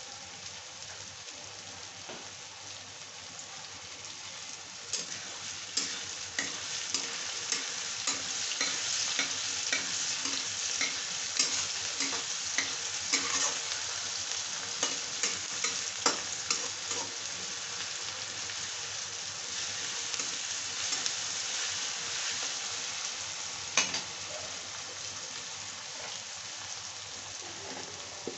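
Chopped onion, tomato and green chilli sizzling in hot oil in a kadhai, frying the tadka for dal, while a steel spatula stirs and clicks against the pan. The sizzle grows louder about five seconds in, with many quick spatula clicks over the next ten seconds and one sharp knock a few seconds before the end.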